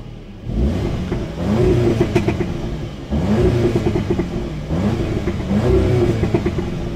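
Audi S3's turbocharged 2.0-litre four-cylinder engine revved repeatedly while stationary, rising and falling about four or five times, with a few sharp crackles from the exhaust in between; the owner calls it a babbler.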